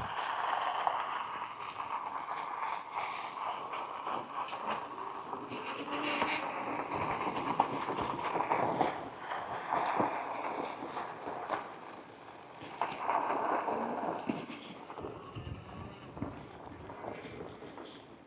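Fat-tire bike riding along: tyres rolling on the ground, with occasional sharp clicks and rattles from the bike.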